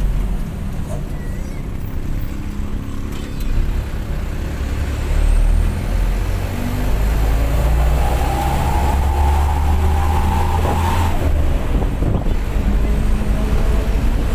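Mitsubishi bus diesel engine running under way, with a low steady hum. A whine builds from about halfway through and cuts off sharply about three-quarters of the way in.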